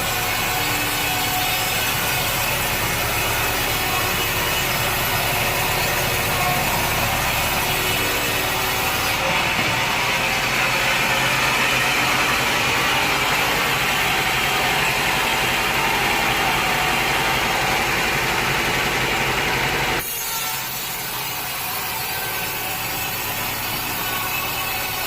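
Sawmill blade cutting through wood with machinery running: a steady, loud rasping saw noise that changes abruptly about twenty seconds in.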